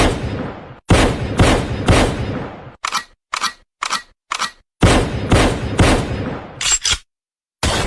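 Intro sound effects: a series of heavy, sharp impact hits in an even beat about two a second, each dying away quickly, with a set of lighter hits in the middle and a brief dead-silent gap near the end.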